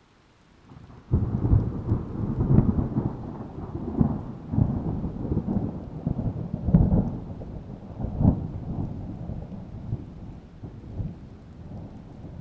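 A thunderclap breaks suddenly about a second in, then rolls on as a low, crackling rumble. The rumble slowly dies away and swells again near the end.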